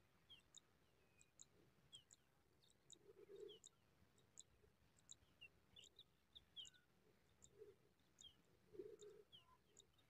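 Faint birdsong: a string of short, sharp high chirps and down-slurred squeaks, irregular at about two a second, with a few brief low sounds about three seconds in and again near the end.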